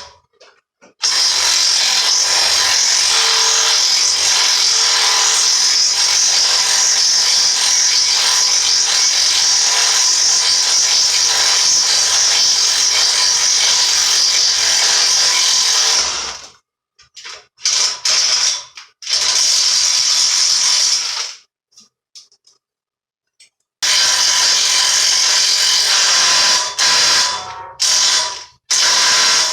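Power drill driving a worn-out step drill bit into metal plate. One long continuous run of about fifteen seconds is followed by a few short bursts, a pause of two or three seconds, and then another run near the end.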